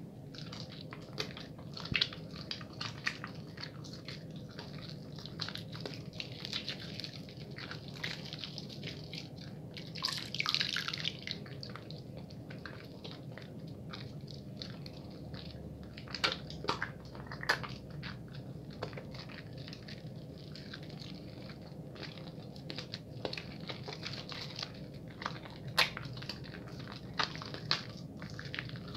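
Bar of soap being lathered quickly between wet hands: steady wet squishing with many small sticky clicks and crackles, and a short hissy burst of foam about ten seconds in.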